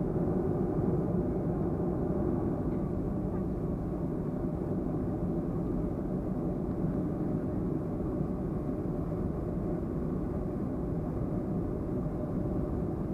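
Steady low drone inside the cabin of a Boeing 737-300 on the ground before take-off, a constant hum with several steady tones and no change in pitch or level.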